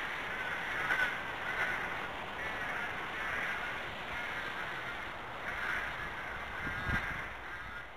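Birds calling over and over from the trees in short, repeated calls, with one brief low thump near the end.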